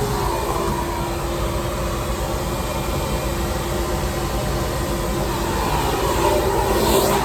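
Shop vac running with a steady drone, getting a little louder near the end.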